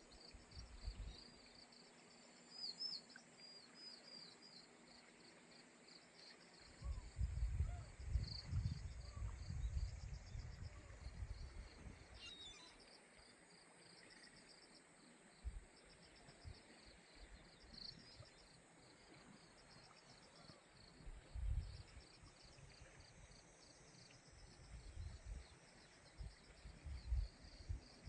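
Birds chirping in a forest, many short high notes repeated throughout, with bursts of low rumble about seven seconds in and again in the last third.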